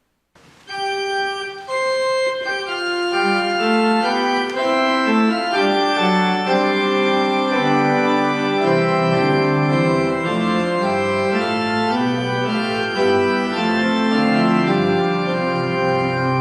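Organ music: after a brief silence, sustained notes enter one after another and build into full held chords, with deeper bass notes filling in about halfway through.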